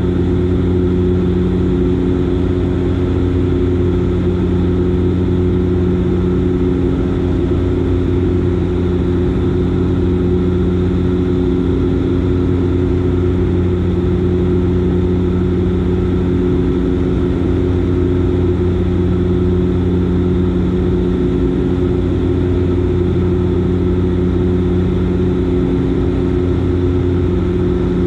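Dash 8 Q400's Pratt & Whitney PW150A turboprop engines and six-blade propellers droning steadily in flight: an even, unchanging hum with a low propeller beat near 100 Hz and its overtones.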